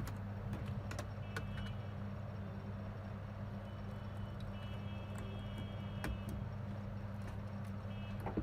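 Steady low hum with scattered light clicks and taps of small parts being handled on a workbench.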